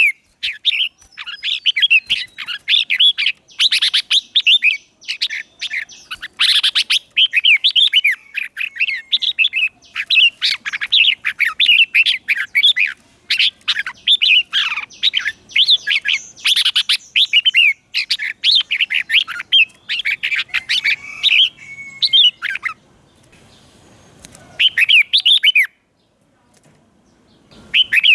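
Red-whiskered bulbul singing in quick, bright warbled phrases, one after another, then falling quiet a few seconds before the end with one short burst of song in the gap.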